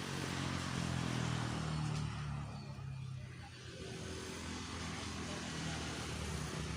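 A motor vehicle's engine passing by, growing louder to a peak about a second in, easing off, then swelling again near the end.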